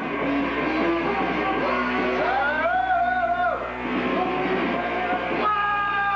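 Loud rock music with electric guitar, played by a rock band. A bending, held note stands out in the middle, and near the end the band moves to a steady held chord.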